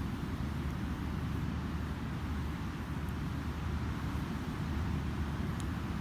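Steady low rumble of ocean surf breaking on a sandy beach, with two faint pops from a wood campfire, one about halfway and one near the end.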